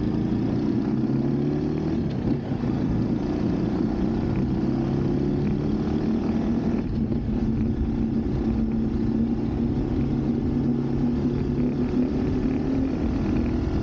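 Motorcycle engine running under way, with wind rushing over the microphone. The engine's pitch climbs over the first two seconds, drops briefly, then holds mostly steady.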